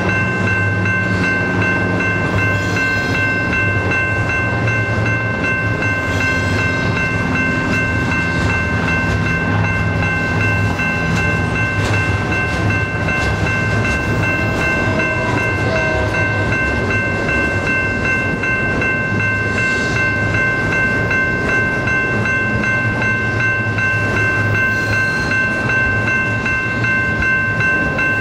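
Double-stack container train's well cars rolling past with a steady rumble and wheels clicking over the rail joints, over a steady high-pitched squeal from the wheels.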